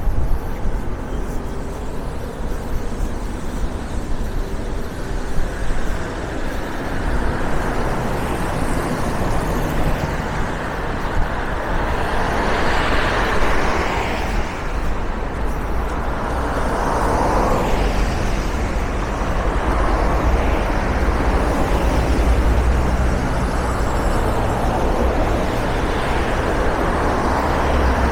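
City street traffic: a steady low rumble of engines, with cars passing one after another, their tyre noise swelling and fading several times.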